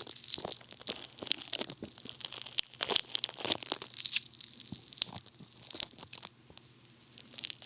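Funny Foam bath foam squished against a binaural dummy head's ear microphones, making a dense, irregular crackle of tiny pops and clicks.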